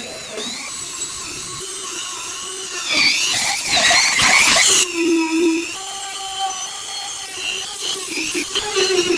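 A small power tool running with a high, shifting whine, louder and rougher for a couple of seconds about three seconds in, as if biting into work.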